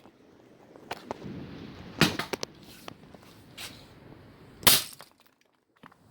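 Hammer blows striking a blown speaker to break it apart: several sharp knocks at uneven intervals, the loudest about two seconds in and near the end, with handling noise between.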